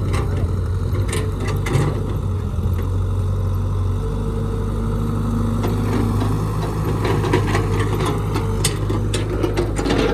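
Heavy diesel engine of an excavator running steadily, with scattered metallic clanks and knocks that come more often in the second half.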